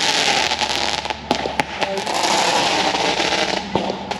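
Consumer fireworks going off close by: a continuous dense hissing crackle, with a few sharp pops.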